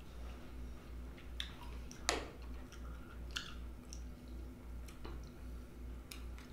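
Close-up mouth sounds of a person chewing soft melon cubes, with scattered wet clicks and the sharpest click about two seconds in. A low pulsing hum runs underneath.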